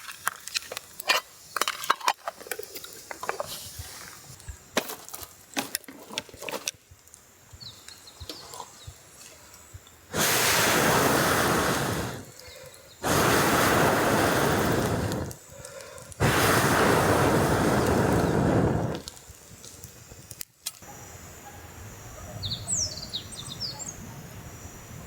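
Three long blows of air through a fire-blowing pipe into a campfire of birch branches that is slow to catch. Each blow is a steady rush about two seconds long, with short pauses between them. Before the blows comes a run of small clicks and snaps, then a single sharp click, and a bird chirps briefly near the end.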